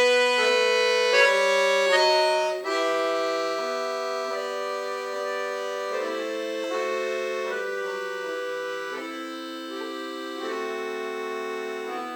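Solo accordion music: a brisk run of notes, then slower sustained chords that gradually grow softer.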